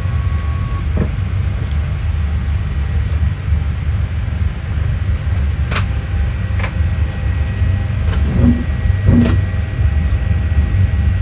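Steady low rumble inside a Boeing 787-8 airliner cabin, with several short knocks and clicks scattered through it.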